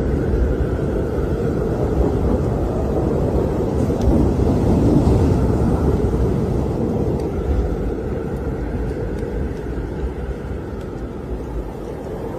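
Strong blizzard wind roaring across the microphone, a loud, deep rushing noise that swells toward the middle and eases a little near the end.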